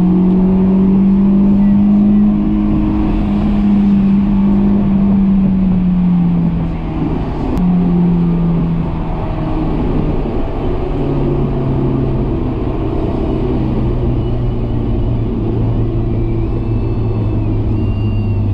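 Honda S2000's four-cylinder engine heard from inside the cabin while driving, its note holding fairly steady then dropping in pitch about six seconds in and stepping lower again later as the car eases off.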